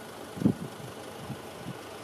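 Wind buffeting the microphone: a steady low rumble broken by short low thumps, the strongest about half a second in.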